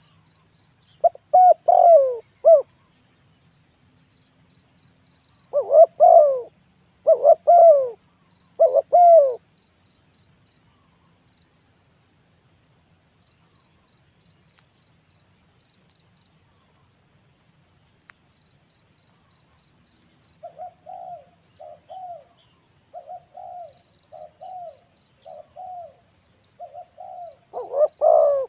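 Spotted dove cooing: loud phrases of several descending coos near the start and again about six to nine seconds in, then a fainter, quicker run of short coos in the last third, ending in a loud coo.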